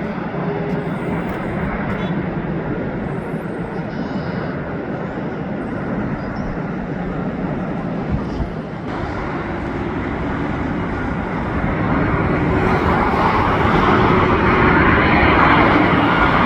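Airliner on final approach, a steady jet engine roar that grows louder over the last few seconds as the plane comes closer.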